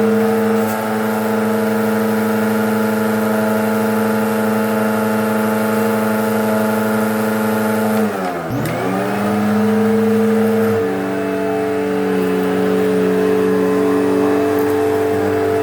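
Eureka Whirlwind bagless upright vacuum's 12-amp motor running with a steady whine during a suction check. About eight and a half seconds in the motor pitch dips sharply and climbs straight back up, and a couple of seconds later it settles to a slightly different pitch as the load changes.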